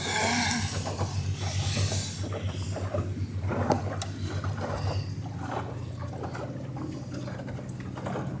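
Water splashing and lapping against a small sailboat's hull as it sails, with scattered small knocks, over a steady low drone.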